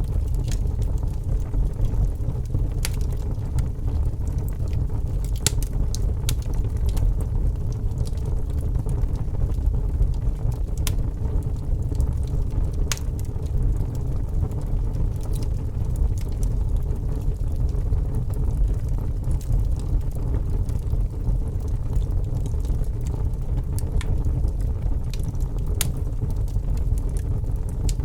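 Log fire burning in a fireplace: a steady low rumble of flames with scattered sharp crackles and pops from the burning wood.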